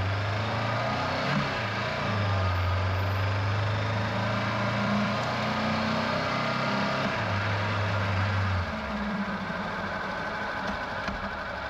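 Honda NX500's parallel-twin engine running steadily under a haze of road and wind noise. Its note drops back and the sound gets a little quieter about nine seconds in.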